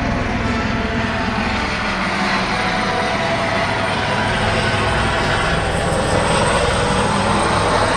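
Airbus H130 helicopter flying low and fast: a loud, steady rotor and turbine sound, with a high thin whine that rises slightly over the last few seconds.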